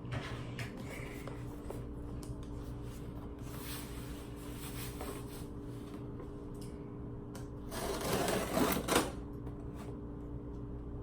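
Hands opening a small cardboard shipping box: scattered clicks and handling noise, with a louder rasping rush of cardboard about eight seconds in lasting over a second, over a steady low hum.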